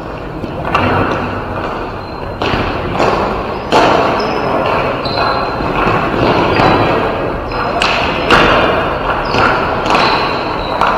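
Ball hockey game play: the ball and sticks knocking against the boards and floor in a string of hard thuds, with short sharp squeaks and players calling out.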